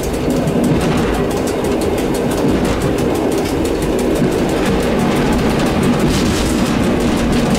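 EN57 electric multiple unit running along the line, heard from inside the driver's cab: a steady rumble of wheels on rail and running gear, with rapid fine clicking and a brief hiss about six seconds in.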